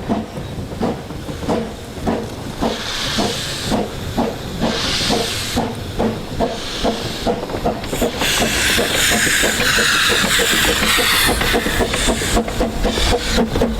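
Narrow-gauge steam locomotive pulling away, its exhaust beats quickening steadily. Surges of steam hiss come a few seconds in, and a continuous hiss sets in from about halfway.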